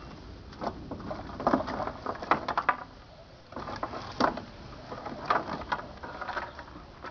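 Irregular clicks, knocks and light scraping of hard objects being handled, in clusters of quick taps with short pauses between.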